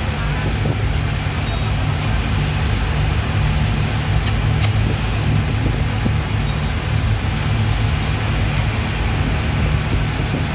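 Speedboat's outboard engines running steadily, a loud even low drone.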